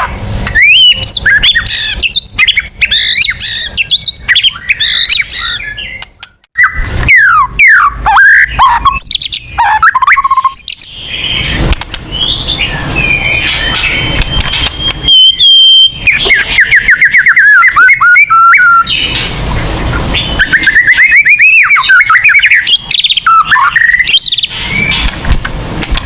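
White-rumped shama (murai batu) singing loudly in long, varied phrases of fast whistled sweeps and trills. A short break comes about six seconds in, and a single high whistle is held for a couple of seconds around the middle.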